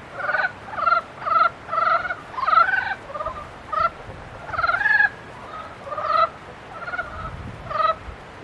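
Frogs calling in the breeding season: a chorus of short, rattling croaks, about two a second, some overlapping from more than one frog.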